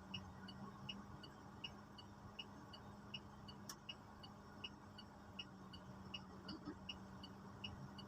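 Faint steady low hum with a light, regular ticking of about three ticks a second, and a single sharp click a few seconds in.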